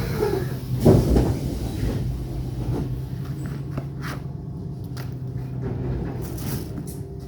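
ET2 electric train standing at a platform, with the steady low hum and rumble of its onboard equipment slowly easing off. A loud knock about a second in, then a few lighter clicks and knocks.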